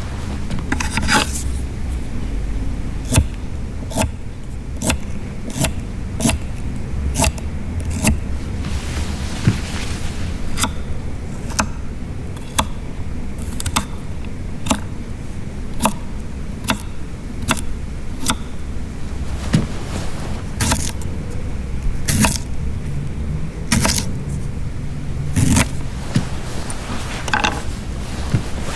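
Fire crackling: sharp pops and crackles at uneven intervals over a steady low rumble.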